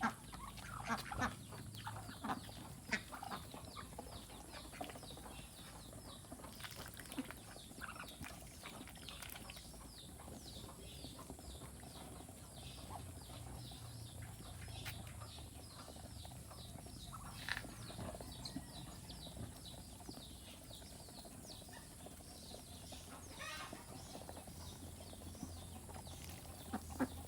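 Ducks feeding on tossed bananas: a steady patter of many quick pecking clicks, with scattered short high calls from the poultry.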